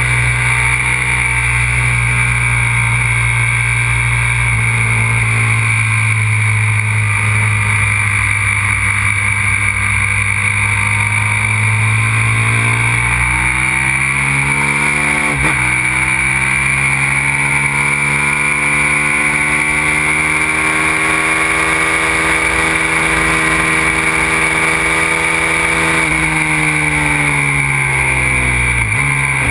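Aprilia RXV 550 supermoto's V-twin engine running hard on track, heard onboard. Its pitch slides up and down with the throttle, with a sharp drop about halfway through and another near the end, as at gear changes or closing the throttle for a corner.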